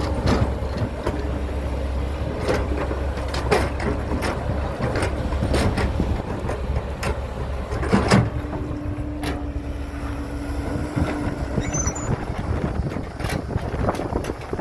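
Heavy diesel construction machinery running with a steady low rumble and a whining tone that fades in and out, over many short knocks and clanks; the loudest clank comes about eight seconds in.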